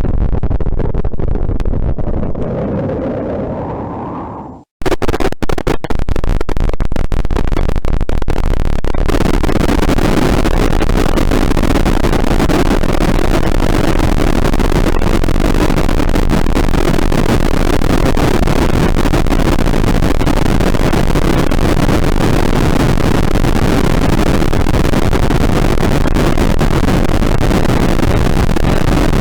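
Harsh experimental noise music. A low rumbling drone fades out to a moment of silence about four and a half seconds in. A sudden crackling, explosion-like blast of distorted noise then cuts in and settles into a dense, steady wall of noise.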